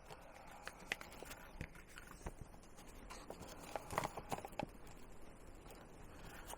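Scattered light knocks and clicks of cooking gear being handled while water is measured out, with a quick cluster of clicks about four seconds in.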